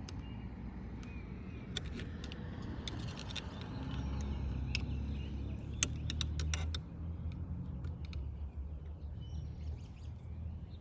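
Light clicks and taps of steering-column parts being handled, over a steady low rumble that swells about four seconds in and eases a few seconds later.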